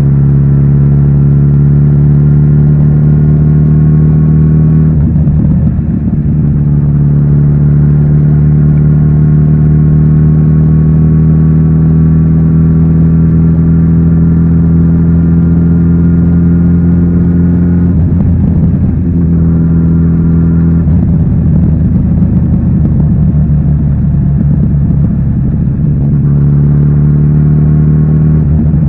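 Kawasaki Z900RS inline-four engine through its stock exhaust, pulling through the gears. The pitch climbs slowly, then drops at gear changes about five, eighteen and twenty-one seconds in, and starts climbing again near the end.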